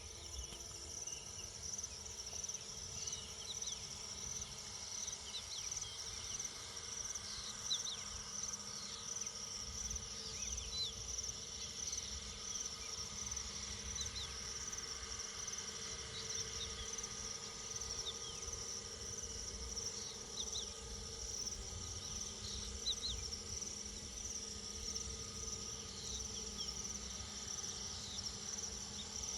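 Steady high-pitched chorus of insects, likely crickets, with short chirps scattered throughout over a low rumble.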